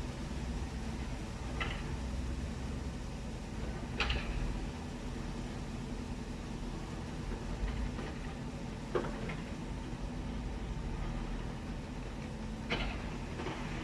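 A heavy engine running steadily at a low rumble, with a few sharp knocks scattered through it, about four in all.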